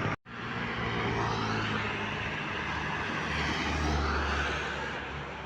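Wind and road noise from riding a bicycle on a road, with motor traffic; a low rumble swells about three to four seconds in and then fades as a vehicle goes by.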